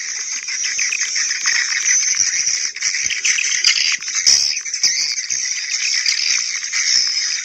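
Swiftlet lure recording playing back: a dense, continuous twittering and rattling of many edible-nest swiftlets, the 'call' and 'roost' swiftlet sounds mixed together.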